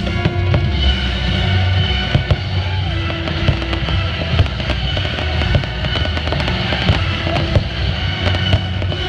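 Aerial fireworks bursting overhead: a steady string of sharp bangs and crackles, the loudest about once a second, over loud show music.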